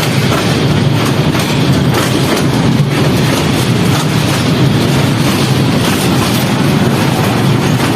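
Moving passenger train heard from on board: a steady rumble of wheels on rails with faint, irregular clicks from the track.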